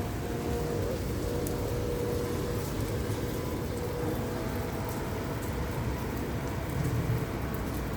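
Light rain falling steadily, with a low rumble underneath and faint scattered drop ticks.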